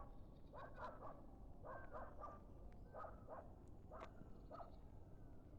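Faint animal calls, short calls in quick groups of two or three, repeating about once a second.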